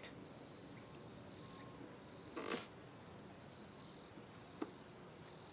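Crickets chirping steadily in the background. A brief rustle comes about halfway through, and a small click near the end.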